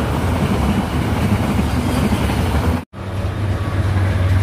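Freight train of covered wagons passing close by: a steady rumble of wheels on the rails with a low hum. The sound cuts out for an instant about three seconds in, and a steady rumble carries on after it.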